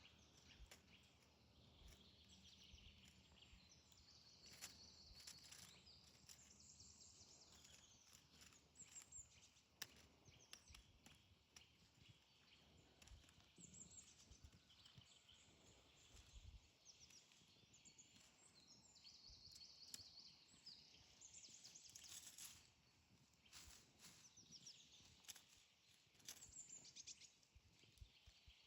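Faint songbirds chirping, with many short, high calls repeating throughout. Occasional brief soft clicks or rustles come through, with a louder one about ten seconds in and another about two-thirds of the way through.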